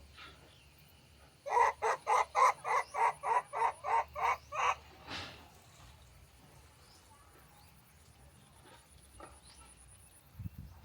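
A bird giving a rapid series of about a dozen short harsh calls, about four a second, ending in one longer call; then only faint background.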